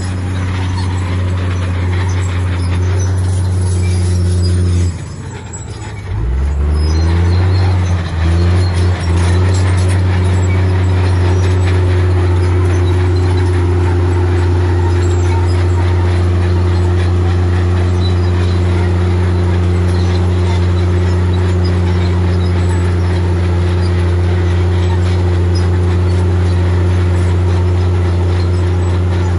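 Heavy diesel engine of earthmoving machinery running under steady load with a deep, even hum. About five seconds in, it dips briefly, then climbs back up in pitch, with two short stutters a little later before settling into a steady run again.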